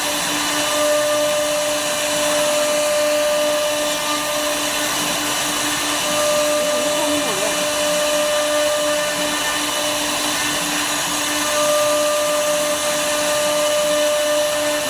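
CNC router spindle running steadily while cutting wood, a constant whine of several pitches over a rushing noise; one of the tones fades out and comes back a few times.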